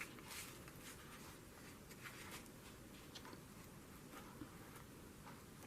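Near silence with faint, scattered rustles of paper being handled and set in place.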